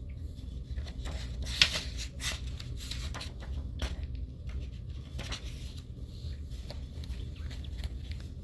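Irregular soft rustles and small taps of paper manga pages being handled and turned, with one sharper tap about a second and a half in, over a steady low hum.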